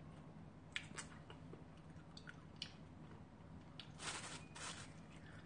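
Faint chewing and mouth sounds of a person eating, with a few small sharp clicks and a brief louder noisy rustle about four seconds in.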